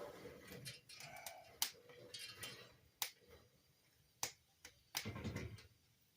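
Wood fire in a fireplace crackling, with several sharp pops over a soft hiss; the wood is slightly wet and giving off gas as it burns.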